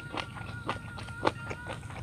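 Close-up chewing of crunchy raw vegetables, a crisp crunch about every half second.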